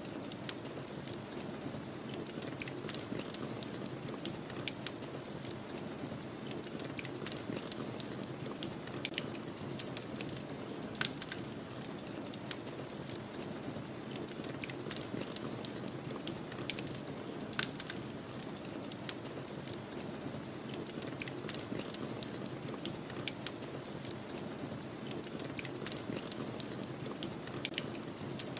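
Wood fire crackling, with frequent irregular sharp pops and snaps, over a steady low rushing noise of snowstorm wind.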